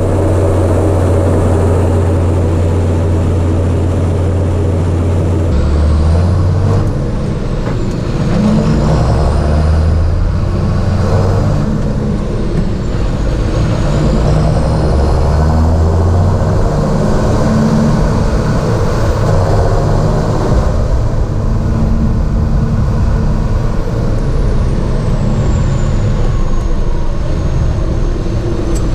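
John Deere 7430 Premium tractor's six-cylinder diesel engine running steadily. Its low drone shifts pitch about five seconds in and again later, with a faint high whine rising and falling over it.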